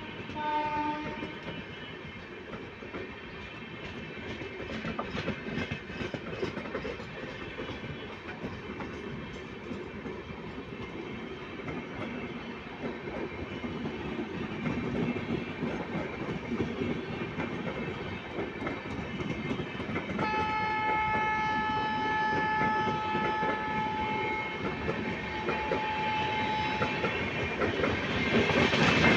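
Passenger coaches of an express train running past over the rails, with a steady rumble and clatter of wheels. A train horn note ends about a second in, and a horn blows one long steady note for several seconds about two-thirds through. The rumble grows louder near the end.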